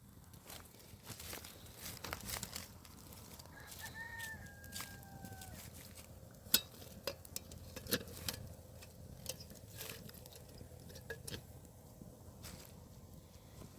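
A rooster crows once about three and a half seconds in, a single call of about two seconds that falls slightly at the end. Scattered sharp clicks and knocks sound throughout, the loudest a little past six seconds in.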